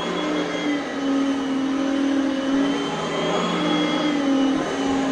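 Oreck Elevate Conquer upright vacuum cleaner running on its high carpet setting while being pushed over carpet: a steady motor whine over airflow hiss, its pitch dipping and rising slightly as the load changes.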